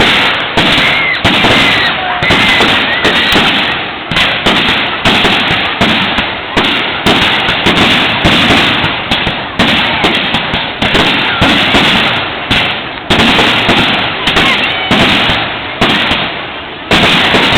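Aerial fireworks going off in a rapid, continuous barrage: loud bangs one or two a second, each fading away, with crackling between them and a few short whistles at the start.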